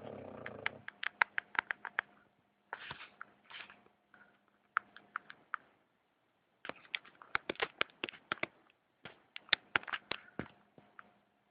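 A sleeping dog snoring: short rasping breaths, the first right at the start, broken up by irregular runs of quick, sharp clicking snuffles.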